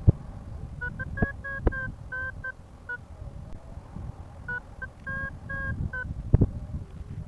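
Paragliding variometer beeping in two runs of short beeps, a sign of the glider climbing in lift. Under it is low wind rumble on the microphone, with a few sharp knocks.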